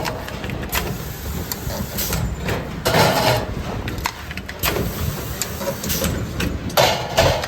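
Workshop machinery running with a steady low hum, broken by irregular metal clanks and knocks every second or so. The loudest clanks come about three seconds in and near the end.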